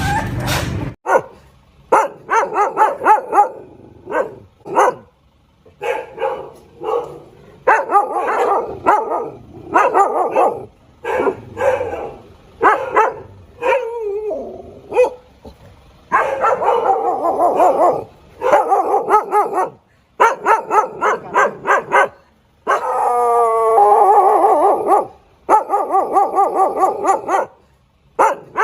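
A dog barking in rapid runs of short barks, with a longer drawn-out howling cry about two-thirds of the way through before the barking resumes.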